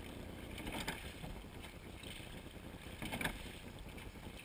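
Seine boat being rowed: an oar stroke about every two and a half seconds, a brief surge of sound near the start and again about three seconds in, over a steady wash of wind and water noise.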